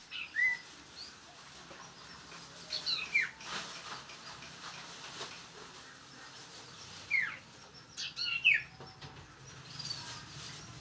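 A small songbird giving short, sharp chirps that drop in pitch, singly and in quick clusters of two or three, with pauses of a few seconds between them.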